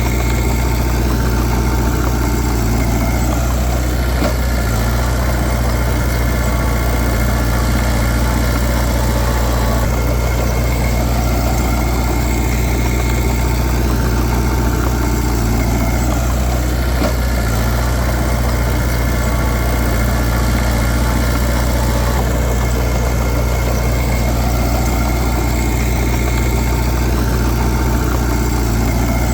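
Heavy diesel engine of earthmoving machinery running at a steady speed, with a strong low hum and no revving or breaks.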